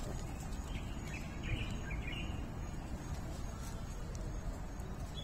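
Steady outdoor background noise, with a short run of high bird chirps between about one and two seconds in.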